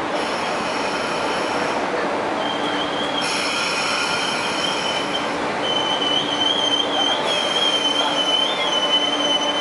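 Railway station sounds of trains: steady rumble with a high whine that cuts in and out a few times, and from about halfway a wavering high-pitched squeal typical of train wheels squealing on the rails as a train approaches.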